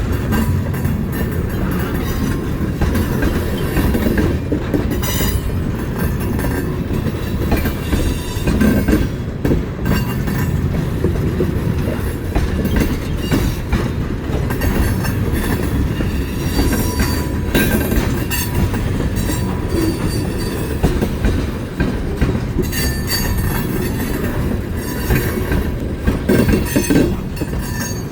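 Railcars of a departing train rolling past, wheels clicking over the rail joints, with some wheel squeal.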